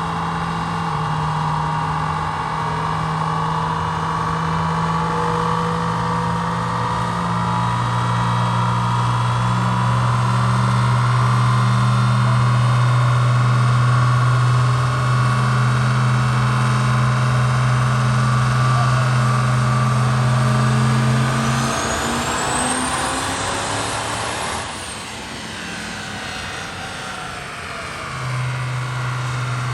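Triple-turbocharged LB7 Duramax V8 diesel making a full pull on a chassis dyno, its engine pitch climbing slowly and steadily for about twenty seconds. It then lets off, a high whistle rising and falling as it winds down, and after a quieter few seconds a steady low hum returns near the end.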